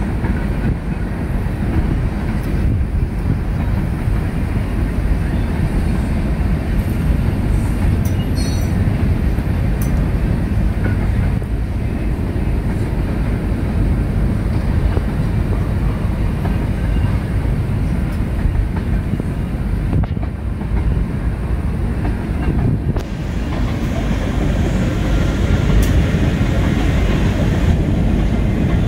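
Freight train cars rolling past: a steady rumble of steel wheels on the rails, with a few brief high squeaks, growing a little louder near the end.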